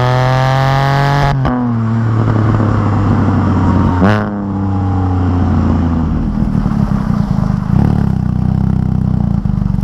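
The Can-Am Spyder RT's three-cylinder engine running through a straight-through RLS Crusher exhaust with the catalytic converter removed, on the road. It pulls high, and the pitch drops about a second and a half in. About four seconds in there is a quick rev that falls away, and the engine then settles into a low, pulsing note.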